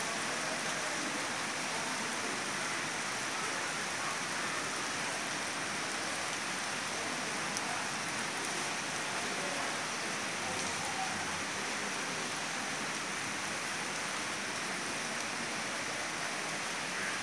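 Heavy rain pouring down steadily, an even rushing hiss of rain on surfaces.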